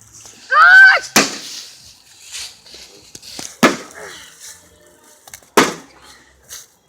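Three hard, sharp blows striking a microwave oven, a couple of seconds apart, with smaller knocks in between. A short high-pitched squeal comes just before the first blow.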